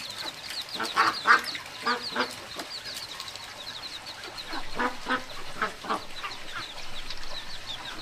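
Domestic fowl calling: a steady run of short, high, falling peeps, about four or five a second, with louder, lower calls from other birds a few times.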